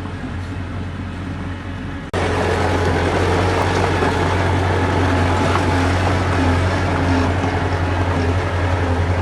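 Diesel engine of heavy earthmoving machinery running steadily with a deep drone. About two seconds in, the sound cuts sharply to a louder, harsher run of the same engine noise.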